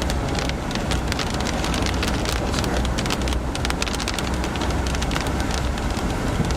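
Rain striking the outside of a moving car, a dense run of sharp drop hits, over the steady low rumble of the car driving.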